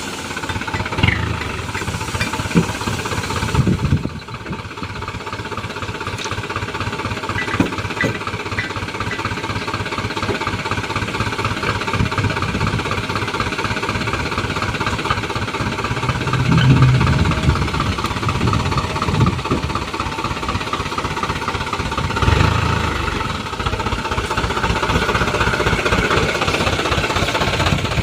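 Diesel dump truck engine running with a steady, rapid clatter, swelling louder twice in the second half.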